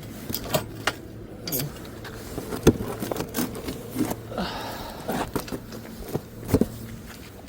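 Scattered clicks and knocks of equipment being handled, over a steady low hum.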